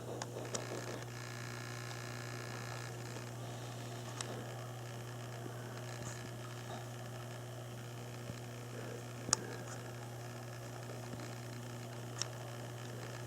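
Steady low electrical hum with a few faint clicks, the sharpest about nine seconds in and another near the end.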